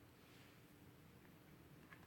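Near silence: faint room tone with a low steady hum and a couple of tiny ticks near the end.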